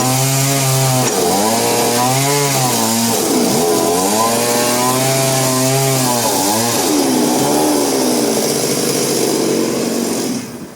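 Chainsaw cutting wood, its engine pitch dipping and recovering several times as the cut loads it, then dropping away near the end.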